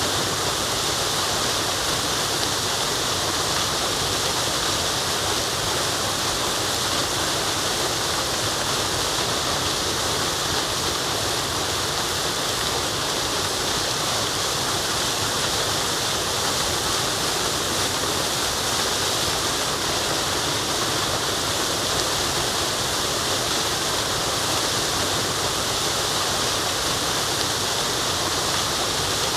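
Waterfall: a steady, unbroken rush of falling water, even and without changes, its hiss strongest in the upper range.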